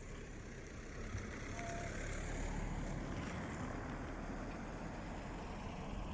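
Road traffic: a passing vehicle's steady rumble that swells about two seconds in and then slowly fades.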